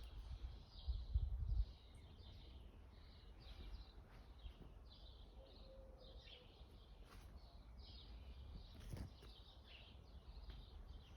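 Birds chirping in many short, quick notes, over a faint background hiss, with a low rumble in the first second or so.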